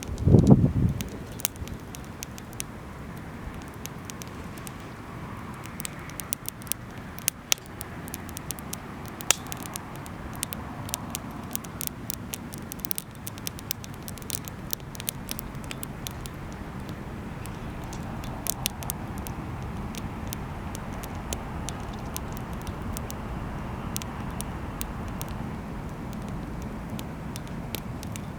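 Wood campfire crackling, with irregular sharp pops over a steady low rumble. There is one heavy low thump about half a second in.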